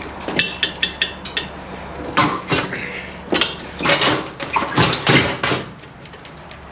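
Irregular series of metallic clanks and knocks, a quick cluster of light ones at first, then heavier single strikes, dying away near the end.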